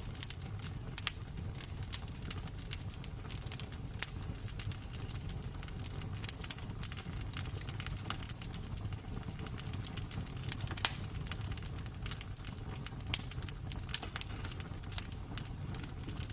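Wood fire crackling in a fireplace: irregular sharp pops and snaps over a steady low rumble, with two louder pops about 11 and 13 seconds in.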